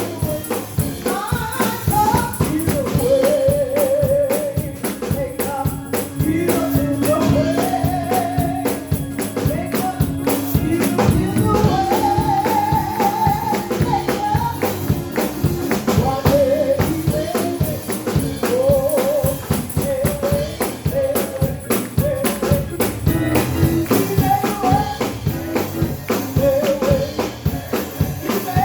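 Live gospel song with a singer and band: wavering sung melody over a steady percussive beat.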